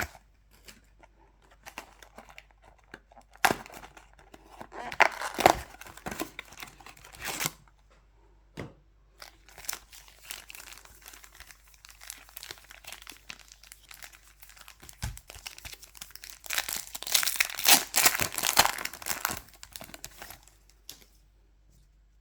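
Foil Pokémon trading-card booster pack wrappers being torn open and crinkled, in two bouts: one a few seconds in and a longer, louder one near the end. Lighter rustling and small taps come between them.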